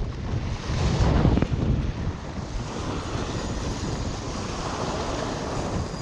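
Wind buffeting the microphone over the rush of water, with a stronger gust about a second in.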